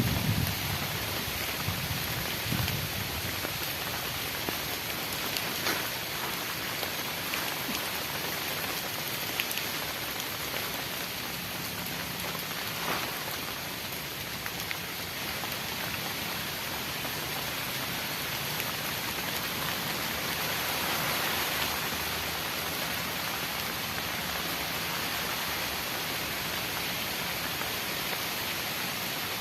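Heavy tropical rain falling steadily, with a few sharper drop hits standing out. There are some dull low knocks in the first few seconds.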